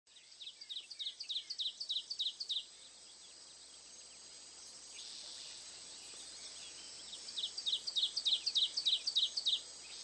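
A bird calling a quick run of about nine short, high, repeated notes at roughly four a second, then a second run like it near the end, over a steady high hiss.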